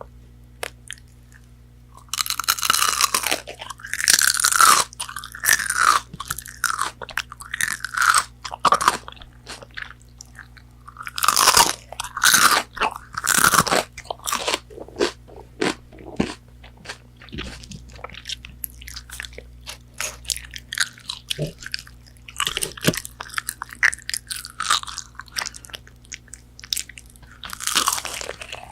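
Close-miked bites and chewing of crispy McDonald's chicken nuggets, loud crunching in bursts that starts about two seconds in, with a softer stretch of chewing in the middle before the crunching picks up again.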